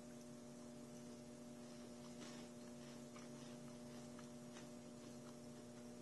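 Near silence: a steady low electrical hum, with a few faint, irregular soft clicks from chewing a wafer chocolate bar with the mouth closed.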